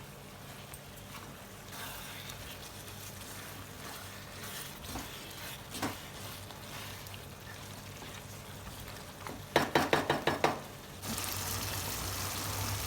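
Chicken gravy sizzling faintly in a pan as it is stirred, with scattered scrapes. About three-quarters of the way through comes a quick run of about eight sharp taps, and then a louder steady hiss sets in.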